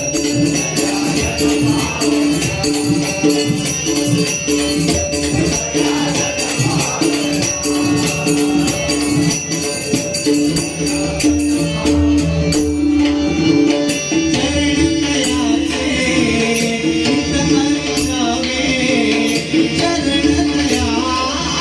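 Marathi abhang bhajan music: a sung melody over a steady held drone, with rhythmic percussion strokes keeping time.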